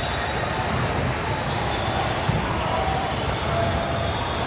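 Basketball game on an indoor court: a ball bouncing amid steady court and crowd noise.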